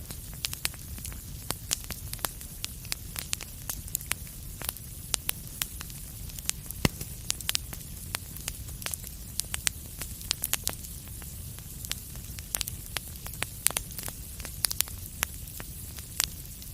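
Wood fire crackling in a fireplace: frequent, irregular sharp pops and snaps over a steady low rumble and soft hiss, with one of the loudest snaps about seven seconds in.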